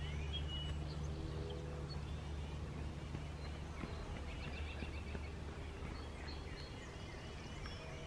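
Wild birds chirping and calling in the trees by the river, with a brief rapid trill about four seconds in, over a steady low rumble that eases after a few seconds.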